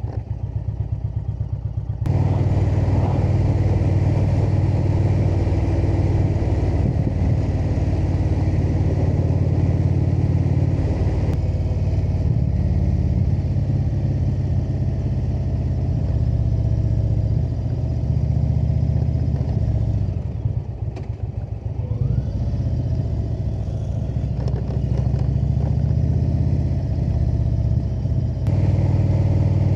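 Indian V-twin cruiser motorcycle engine pulling along at road speed, with wind noise over it. It gets louder about two seconds in, eases off briefly about two-thirds of the way through, then picks up again near the end.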